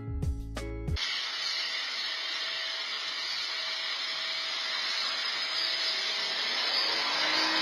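Plucked guitar music stops abruptly about a second in, followed by a steady hiss of water spraying from a garden hose.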